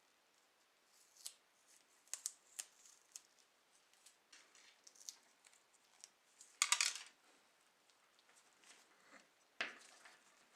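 Scattered light clicks and taps, with a short rasping burst about two-thirds of the way through and a sharp click near the end.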